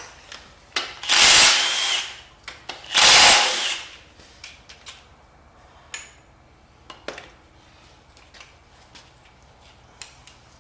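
Two bursts of a handheld power tool, about a second each, spinning out connecting-rod cap bolts on a 5.3 LS engine. They are followed by light scattered clicks and clinks of tools and metal parts being handled.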